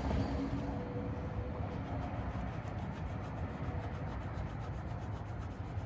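Cotton pad rubbed back and forth over car door paint, working WD-40 into a light scratch: a steady soft rubbing.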